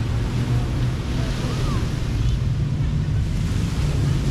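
Surf washing on a sandy beach, mixed with wind buffeting the microphone and a steady low rumble.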